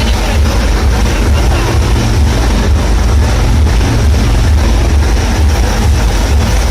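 Monster truck engine running loudly and steadily, with a deep rumble.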